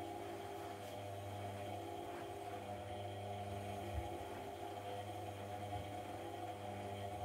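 AEG Lavamat 1400 washing machine running its wash cycle: a steady hum, with faint knocks about four seconds in.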